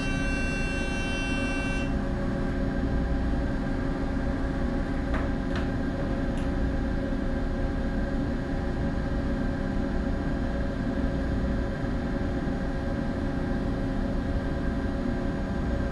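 Steady low rumble and hum of a bulk carrier under way at slow ahead, with several steady tones over it. An electronic buzzer tone sounds for about two seconds at the start, and a few faint ticks come a little later.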